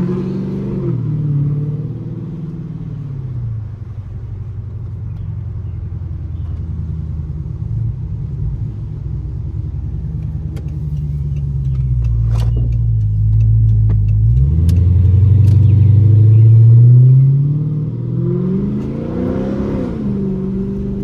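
Straight-piped 6.4-litre Hemi V8 of a 2012 Dodge Charger SRT8 on the move, heard from inside the car. A low, steady exhaust drone while cruising gives way to a louder pull under acceleration, loudest about three-quarters through, then a quick rev that rises and falls in pitch near the end.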